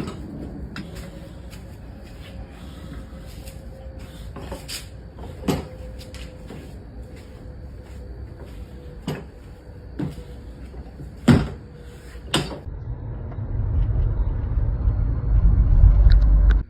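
A series of sharp knocks and clunks, about six spread out, from work on a tire. From about three-quarters of the way in, a loud low rumble takes over and then cuts off suddenly.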